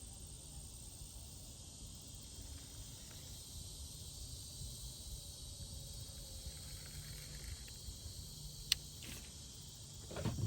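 Steady high-pitched insect chirring with a low rumble underneath. There is a single sharp click late on and a thump just at the end.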